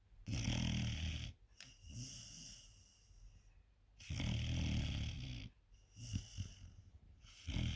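A 4-month-old puppy snoring in her sleep: three loud, rattling snores about three and a half seconds apart, with softer breaths between them.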